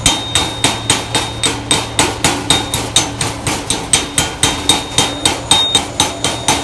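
Hammer rapidly striking a fresh stick-weld bead to chip off the slag, metal on metal, with a ringing tone on each blow, about four strikes a second.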